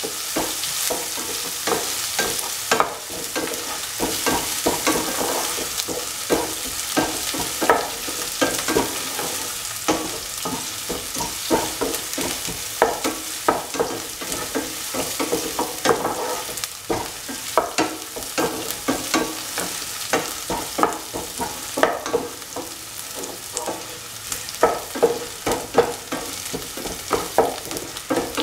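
Chopped shallots, ginger and garlic sizzling in hot oil in a pan while a spatula stirs and scrapes them around, giving a steady hiss with frequent short, irregular scrapes. They are being sautéed until golden brown.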